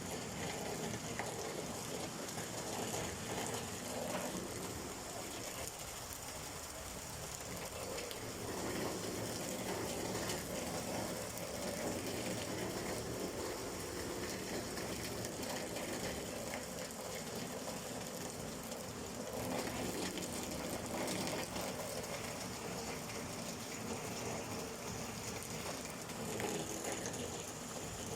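Steady rain falling: a dense, even patter of drops that keeps on without a break.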